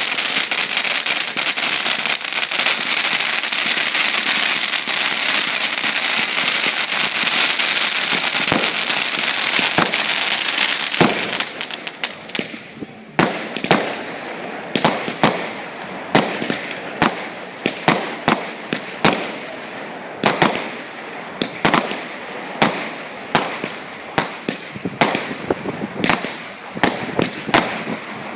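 Fireworks going off. For about the first twelve seconds there is dense, continuous crackling, then a long series of separate sharp bangs, about one or two a second.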